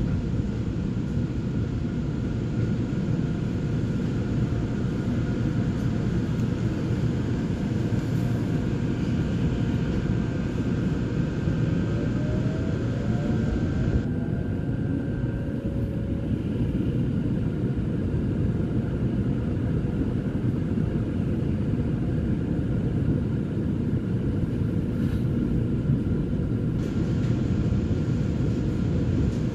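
Gyeongui–Jungang Line electric commuter train running, heard from inside the carriage: a steady low rumble of the train on the track, with a faint rising whine about halfway through.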